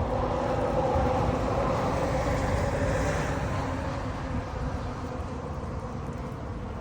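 A vehicle passing by, swelling to its loudest about a second in and then slowly fading, with a steady low rumble of wind on the microphone underneath.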